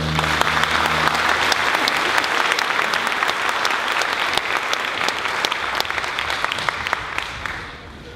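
Audience clapping, many hands together, dying away near the end; the last held note of the preceding music stops about a second in.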